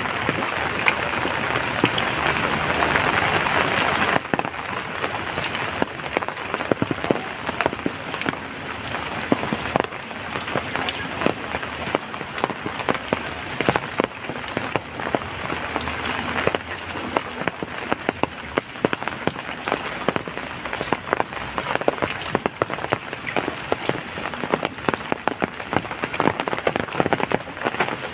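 Heavy rain falling steadily, with many separate drop strikes heard through the steady wash. It is louder and denser for about the first four seconds, then drops suddenly to a lighter but still steady fall.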